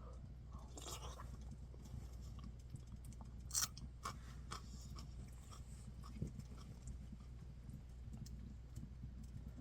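Faint chewing and crunching with scattered small clicks, over a steady low hum. One sharper click comes about three and a half seconds in.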